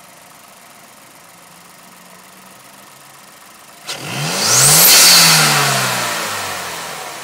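2008 Mazda 3 MPS's 2.3-litre turbocharged four-cylinder idling, then given one sharp throttle blip about four seconds in: the engine revs up quickly with a high whistle rising with it, then falls slowly back toward idle. Heard at the open cone filter of a Cobb short ram intake.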